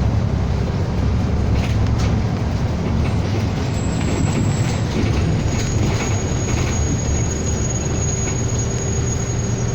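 City bus running along the road, heard from inside the cabin: a steady low engine drone with road noise and occasional light rattles, and a thin high whine setting in about five seconds in.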